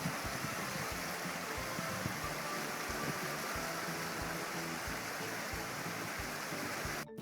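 Steady rush of a river running high after a typhoon, with faint background music under it. The water sound cuts off abruptly near the end as the music carries on alone.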